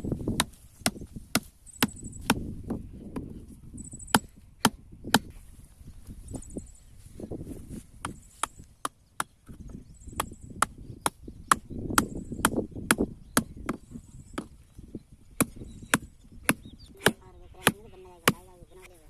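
Repeated sharp strikes, about two a second and evenly kept up, like a tool hitting something hard. A short wavering call is heard near the end.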